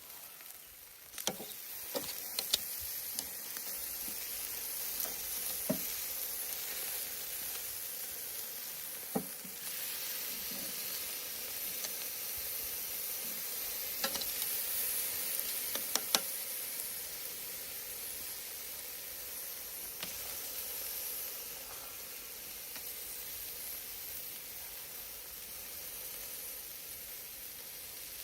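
Steak sizzling on a wood-fire grill: a steady hiss that gets louder about a second in, with a handful of sharp pops scattered through it.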